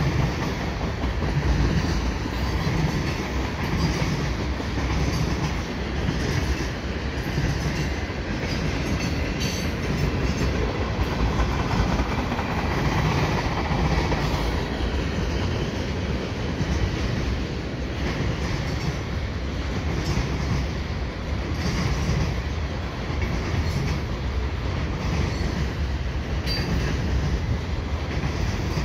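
Cars of a mixed freight train rolling past on steel rails. It is a steady rumble of wheels on track with a loosely repeating beat of wheel clacks.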